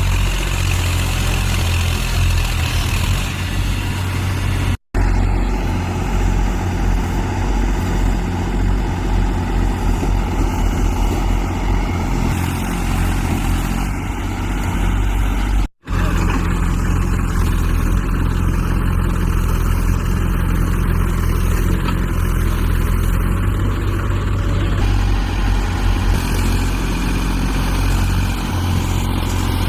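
Massey Ferguson tractor's diesel engine running with a steady, heavy low rumble. The sound drops out completely for an instant twice, about 5 and 16 seconds in.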